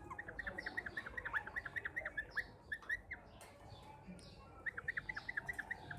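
Green parrot chirping softly in quick runs of short high notes, pausing briefly about halfway through before starting again.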